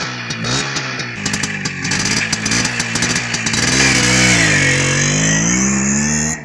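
A small motorcycle engine revving up and down under acceleration, mixed with background rock music; it cuts off suddenly near the end.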